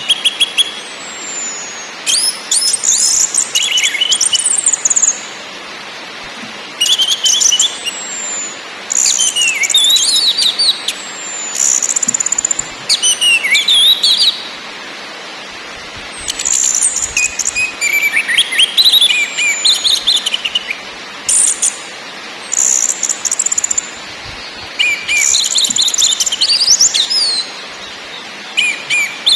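Orange-headed thrush (anis merah) singing: a string of varied song phrases of quick high whistles and sweeping notes, each one to three seconds long with short pauses between, over a steady faint hiss.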